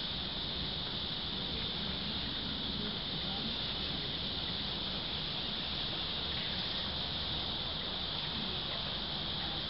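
Steady high-pitched insect chorus that does not change, over a low background rumble.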